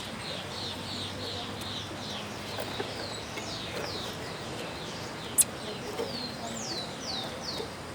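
A bird singing a long run of short, high notes, each sliding downward, repeated several times a second. A single sharp click cuts in about two-thirds of the way through.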